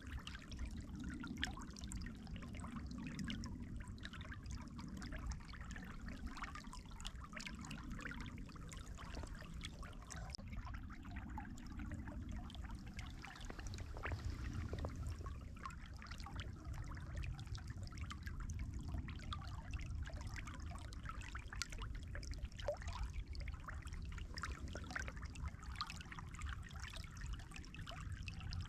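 Water trickling steadily, with small irregular splashes.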